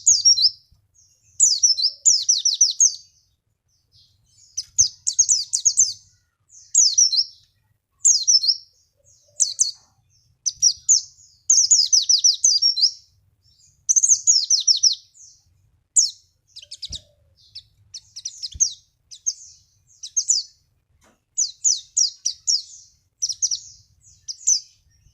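Pleci (white-eye) singing: rapid high chirping phrases, each about half a second to a second and a half long, repeated with short gaps.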